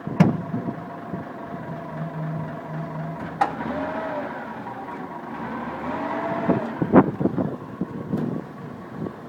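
Excavator engine running while its bucket presses down on a tyre to break the bead, with a whine that rises and falls twice and three sharp knocks or cracks.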